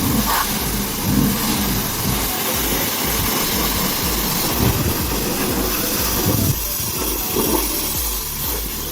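High-pressure water spray hissing steadily, over a low, even pulsing about two to three times a second.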